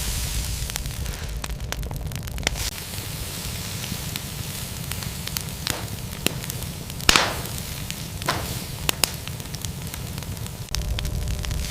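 Steady hiss over a low rumble, with scattered sharp crackles and pops throughout and two louder whooshes about seven and eight seconds in.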